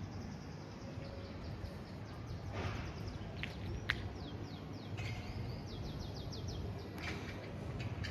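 Small birds chirping in quick runs of short, high, falling notes over a low steady rumble. One sharp click about four seconds in is the loudest sound.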